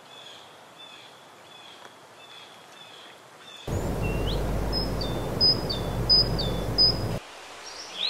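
Birdsong outdoors: a bird repeats a short chirp about every 0.6 s. A little before halfway a low rumble of noise cuts in abruptly and runs for about three and a half seconds, with a bird whistling a repeated note over it, then cuts off, and a falling whistled call comes near the end.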